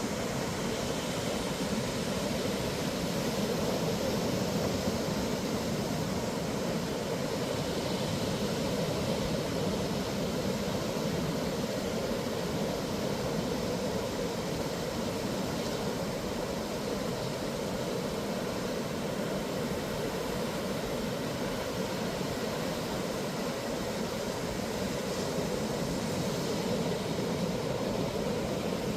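Steady roar of ocean surf breaking along a sandy beach, rising and falling only slightly.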